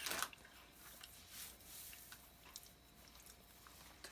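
A person chewing crunchy corn potage puff snacks, faintly, after a short crunchy burst right at the start.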